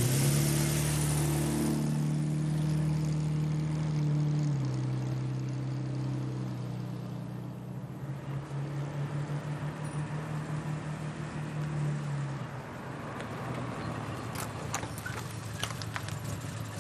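Jaguar saloon's engine running steadily, dying away about twelve seconds in. A few sharp clicks follow near the end.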